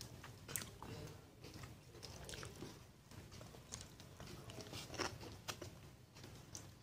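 A person biting and chewing crunchy food, with scattered sharp crunches, the loudest about five seconds in.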